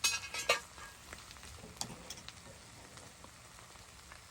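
Two sharp clinks about half a second apart, and another a little later, over a faint steady crackling hiss, with the just-cooked rice and the cast-iron Dutch oven it was made in.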